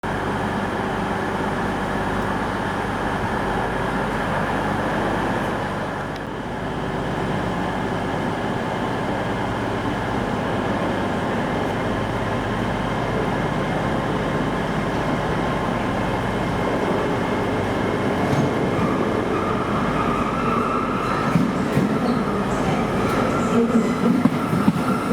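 A train at a station platform, its engine running with a steady hum. From about two-thirds of the way through, a high squeal sets in and grows louder, with irregular knocks near the end.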